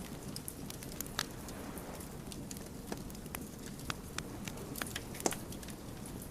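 Wood fire crackling: irregular sharp pops and snaps of burning logs over a steady low rumble of flame, with the loudest pop about five seconds in.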